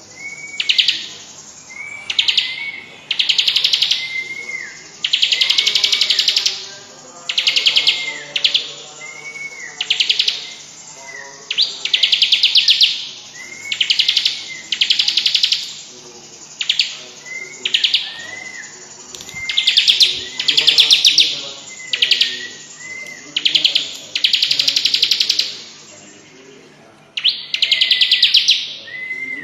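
Bar-winged prinia (ciblek) singing its rattling 'cetrekan' song: fast, loud rattling trills, each opened by a short rising-and-falling whistled note, repeated about every one to two seconds.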